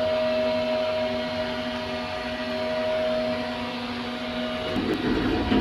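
Steady machinery hum aboard a ship, holding several fixed tones; near the end it gives way to a rougher low rumble.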